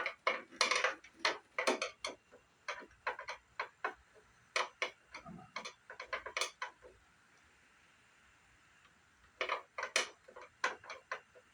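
Irregular small clicks and taps of a screwdriver on screws and the plastic housing of a CRT monitor as its back casing is worked loose: a run of clicks, a short pause, then another cluster.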